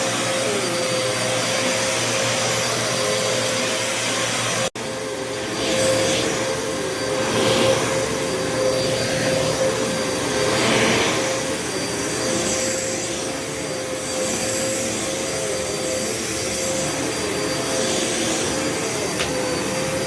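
Upright vacuum cleaner running steadily on carpet with a constant whine, being pushed forward and back. Its sound swells and eases a few times with the strokes, and it cuts out for an instant about five seconds in.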